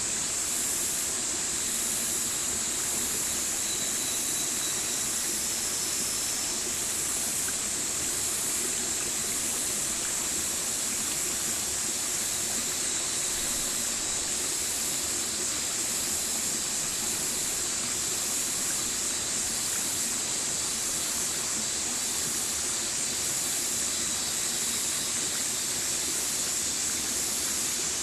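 Stream water running with a steady, even rush, with a constant high-pitched hiss above it.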